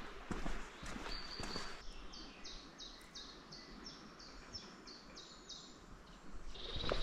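Footsteps on a woodland dirt path, then a songbird singing a quick run of about ten repeated high notes, about three a second; footsteps start again near the end.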